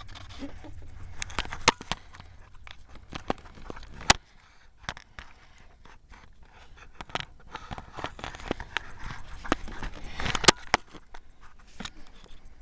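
Handling and movement noise: scattered clicks, light knocks and scrapes as a person shifts about on the truck's front end, with two sharper knocks about 4 s and 10.5 s in.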